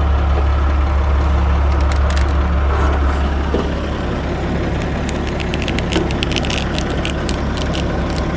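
Tractor engine running steadily, with bursts of sharp clanks and rattles about two seconds in and again through the second half, as the machine works loading dirt spoils out of a pond.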